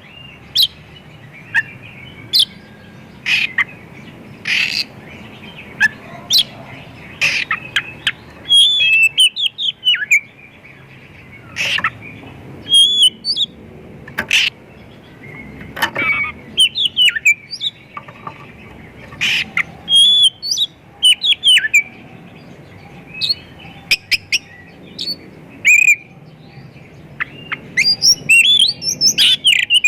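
Oriental magpie-robin singing a varied song of short, sharp chirps and rising and falling whistles in bursts with brief pauses, mixing in mimicked calls of other birds.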